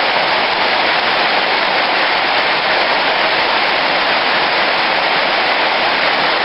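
Heavy rain falling hard, a dense and steady hiss.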